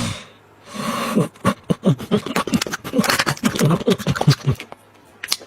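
A dog making a quick run of short vocal sounds, starting about a second in and lasting about three seconds.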